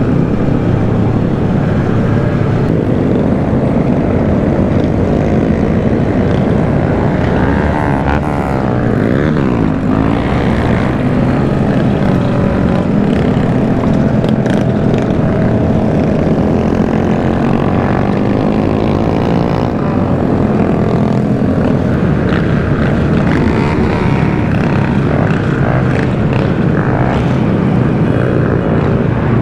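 Steady, loud wind rumble on the microphone of a camera riding along on a moving mini bike, with road and traffic noise under it. The sound swells and sweeps briefly about eight seconds in and again near twenty.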